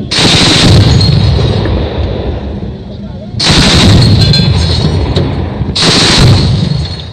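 ZU-23 23 mm anti-aircraft autocannon firing long bursts of rapid fire: three bursts, the first about three seconds long, the next two starting about three and a half and six seconds in.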